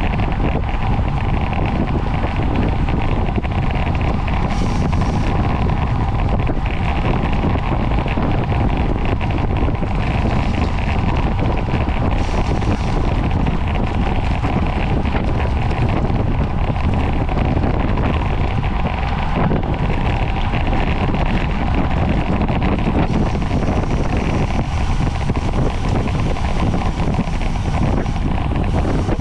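Wind rushing over the microphone of a camera carried on a bicycle at race speed: a steady, loud rumble.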